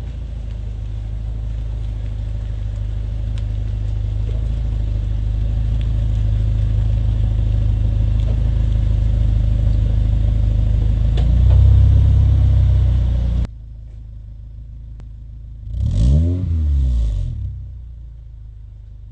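2002 Honda Accord's 2.3-litre inline-four running through a full Yonaka exhaust and Mugen exhaust manifold: a steady exhaust drone that slowly grows louder and swells about twelve seconds in, then cuts abruptly to a quieter drone. A few seconds later a single rev blip rises and falls in pitch.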